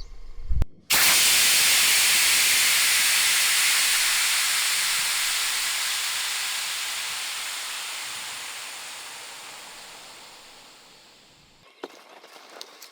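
A loud hiss, like air or steam escaping, that starts suddenly about a second in and fades steadily over about ten seconds before cutting off near the end.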